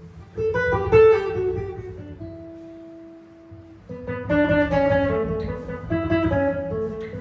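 Jazz guitar improvising. It opens with a quick phrase of plucked notes, lets a two-note chord ring out for a couple of seconds, then plays another busy run of single notes and chords.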